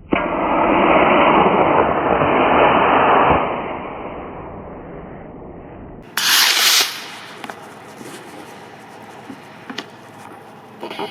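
A model rocket motor igniting at launch: a sudden loud rushing roar for about three and a half seconds, fading away as the rocket climbs. A short, loud hiss of noise follows about six seconds in.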